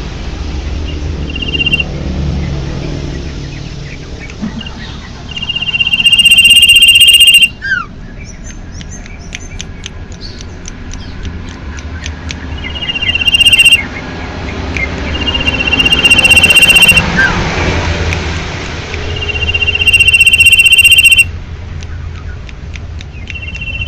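A bird giving a loud, harsh, buzzing call of 1 to 2 seconds, repeated about five times, with quick chirps and clicks in between.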